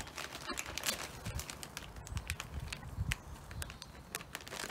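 A plastic bag of mealworms bird food being handled and opened: irregular crinkling with many small clicks and crackles.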